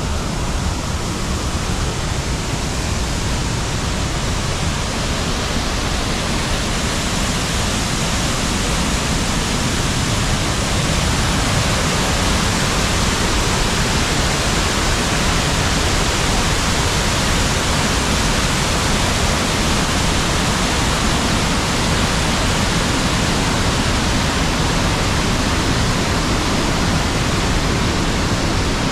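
Waterfall on a river: a loud, steady rush of falling water, even and unbroken.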